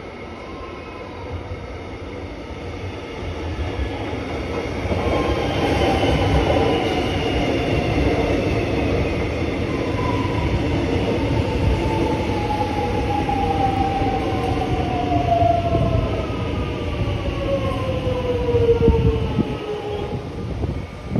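Melbourne suburban electric train pulling into a station. The rumble of its wheels builds, and the whine of its traction motors falls steadily in pitch as it brakes.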